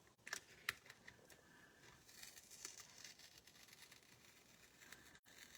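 Faint handling of paper and cutting plates at a craft table: two light clicks in the first second, then soft paper rustling.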